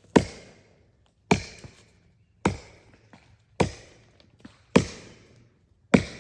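Axe chopping into a large fallen tree trunk: six evenly paced strikes a little over a second apart, each a sharp hit that dies away quickly.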